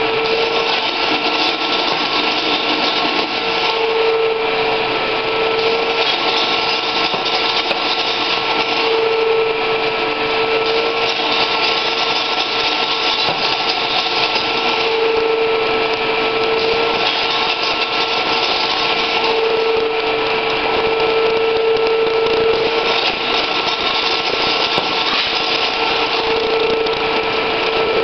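Rim-curling machine running continuously, a loud mechanical noise with a steady high tone. A lower tone swells and fades again every few seconds.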